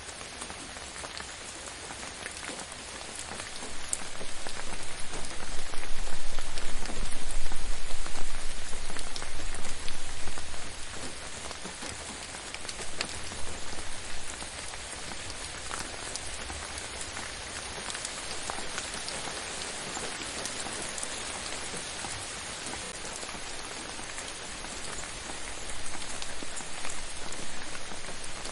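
Steady gentle rain falling on a surface, with individual drops ticking through the hiss. About a third of the way in, it swells louder for several seconds with a low rumble underneath, then settles back, and swells a little again near the end.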